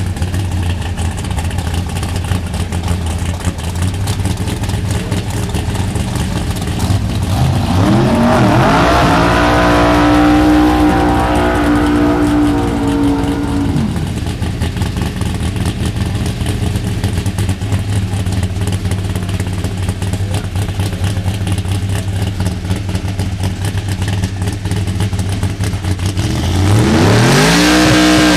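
Drag race car's engine idling with a lumpy beat, revving up about eight seconds in and holding a steady higher pitch for about five seconds before dropping back to idle. Near the end it revs up again as the car starts its burnout.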